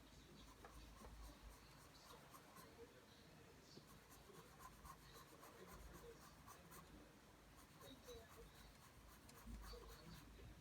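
Pencil drawing lines on paper: a faint run of short, repeated scratching strokes.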